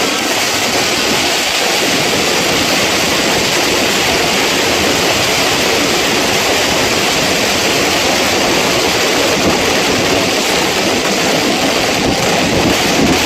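Dense, unbroken crackle of many firecrackers going off at once, a steady rush of tiny pops with no single big bang standing out.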